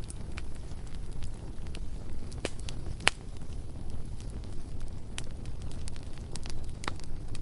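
Bonfire burning with a steady low rumble and scattered crackles and pops of burning wood, the sharpest pop about three seconds in.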